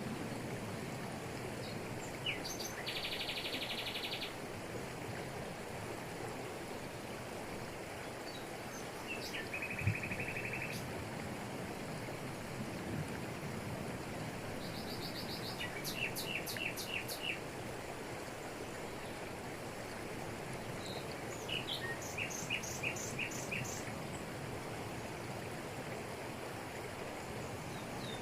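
Steady rush of a waterfall in tropical forest, with birds calling over it: a short high trill about three seconds in, a buzzy note around ten seconds, and quick runs of chirps at about sixteen and twenty-two seconds. A brief low thump comes about ten seconds in.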